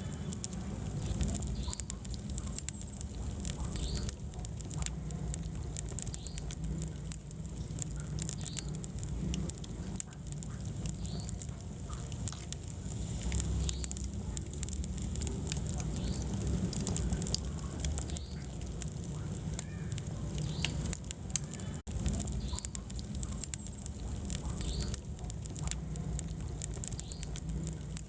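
Wood fire burning in a fireplace, with a steady low rumble of the flames and frequent irregular crackles and pops from the burning logs.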